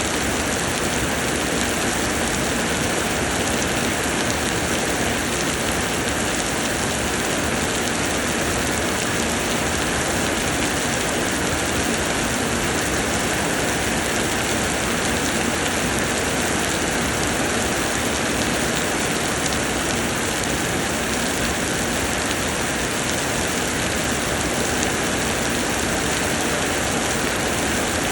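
Heavy summer rain falling steadily, a dense even hiss of rain pouring down on surfaces.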